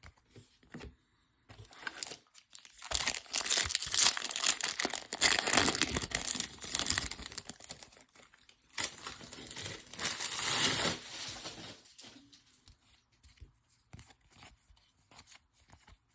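Plastic wrapper of a Topps baseball card pack being torn open and crumpled, crinkling hard in two long spells: a first starting a second or so in, and a shorter one a little after the middle. Near the end only faint soft ticks remain.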